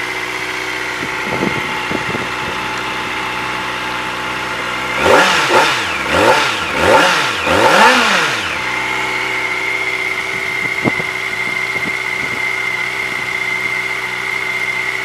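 2024 Kawasaki Ninja ZX-4RR's 399 cc inline-four idling, then revved in about five quick throttle blips a third of the way in, the pitch shooting up and dropping back each time, before settling to a steady idle again.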